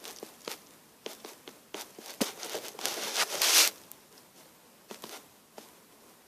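Handling noise: scattered light clicks and taps, with a rustling stretch that grows louder about three and a half seconds in, then stops.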